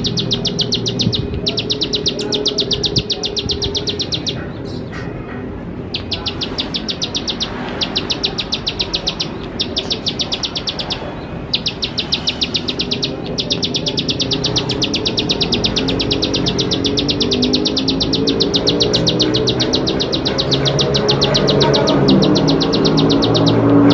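Plain prinia singing its clicking song: long runs of rapid, sharp notes, about a dozen a second, broken by brief pauses. Underneath is a lower, steadier sound with several pitches, which grows louder in the second half.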